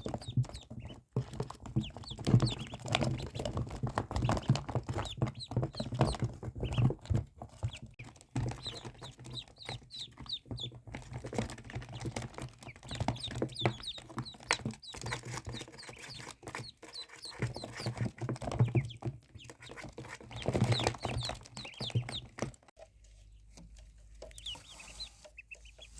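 Ducklings peeping, many short high chirps overlapping, with frequent clicks and knocks among them; the sound thins out and grows quieter near the end.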